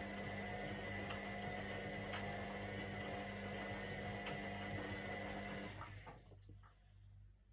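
Indesit IWC 71252 washing machine's motor and drum running with a steady whirring hum, which cuts off suddenly about three-quarters of the way through, followed by a few light clicks and a faint low hum.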